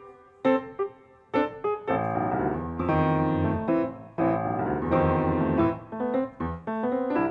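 Solo piano played by a young child: short detached notes, then from about two seconds in a louder stretch of thick, held chords lasting several seconds, then short detached notes again.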